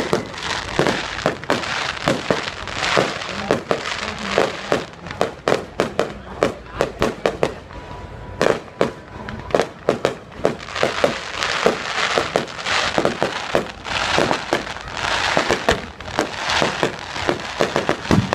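Fireworks display going off: a rapid run of bangs and crackling bursts, thickest about halfway through and again near the end.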